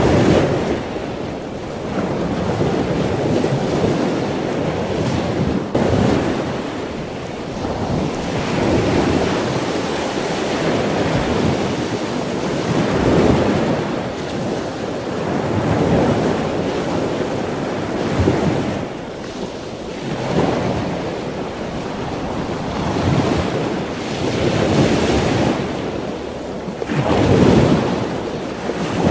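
Ocean surf: waves breaking and washing in, swelling and falling away every few seconds.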